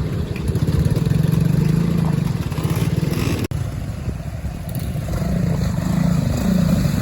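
Classic trials motorcycle engine running at low revs with the throttle rising and easing, its exhaust pulsing evenly; the sound breaks off for an instant about halfway through and picks up again.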